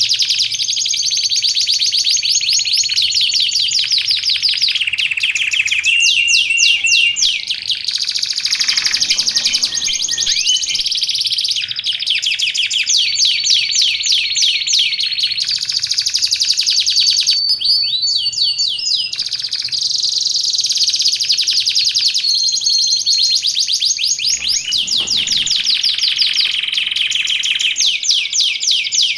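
Domestic canary singing a long, continuous song of fast trills and rapid repeated notes with brief held whistles, high-pitched and without pause.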